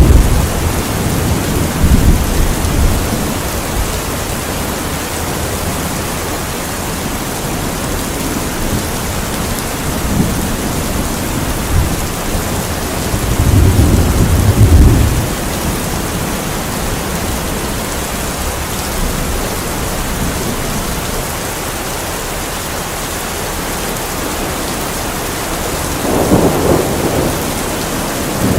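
Steady rain falling, with thunder rumbling over it in slow rolls: one about two seconds in, a longer one around the middle, and another near the end.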